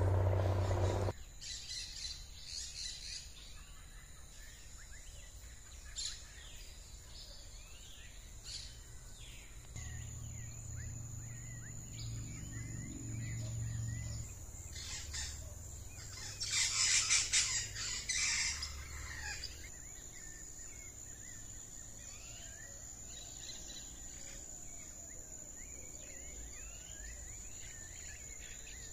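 Many birds chirping and calling in short quick notes, with a louder harsh call a little past the middle. A thin steady high tone comes in about a third of the way through, and a low rumble sounds in the first second and again just before the middle.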